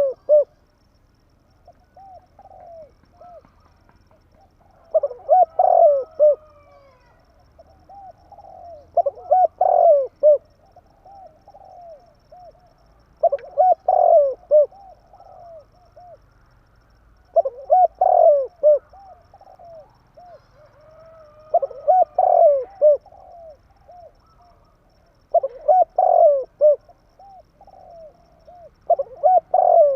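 Spotted dove cooing: a loud phrase of several quick coo notes repeated about every four seconds, with softer coos in between.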